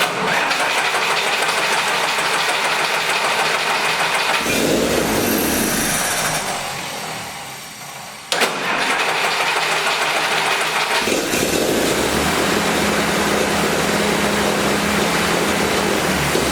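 Jeep engine being started: the starter cranks for about four seconds, the engine fires briefly and dies away, then is cranked again about eight seconds in and catches, settling into a steady idle.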